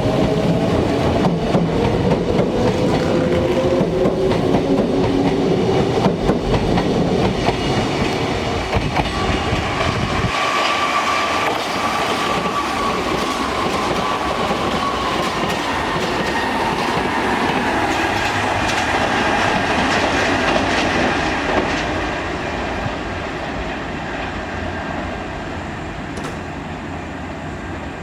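Kintetsu Minami-Osaka Line electric train running through the station, wheels clattering over the rail joints with its motor whine falling in pitch. About ten seconds in, the deep rumble drops away suddenly, leaving a higher whine that gradually fades near the end.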